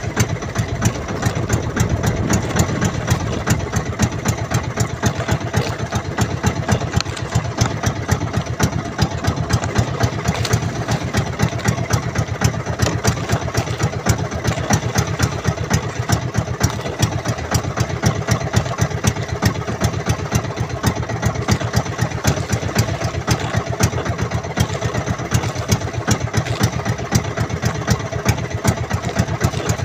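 Small fishing boat's engine running steadily with a fast, even thudding beat.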